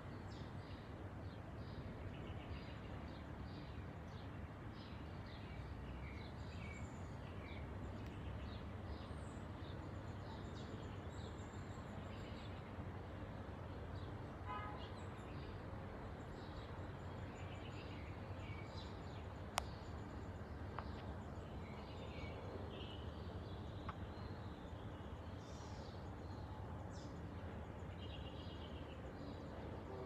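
Several small birds chirping and singing in short, scattered calls over a steady low background rumble, with a single sharp click about two-thirds of the way through.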